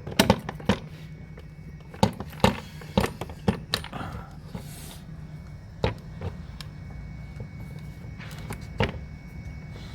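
Sharp, irregular clinks and knocks of hand tools and parts as the battery tray is unbolted and worked free, thick for the first four seconds and then only a few, over a steady low hum.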